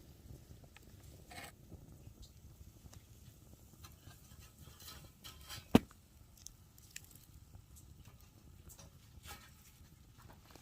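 Small twig fire burning in a nature stove, giving scattered faint crackles and ticks, with one sharp pop a little over halfway through.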